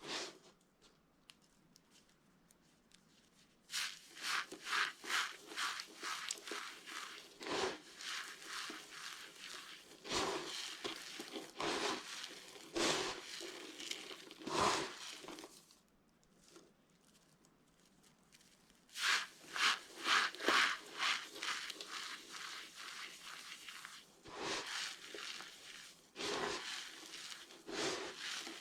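Dry soap being crushed and broken, in runs of crisp crackling and crunching strokes with short pauses between them: a long run starting about four seconds in, a pause just past the middle, then two more runs.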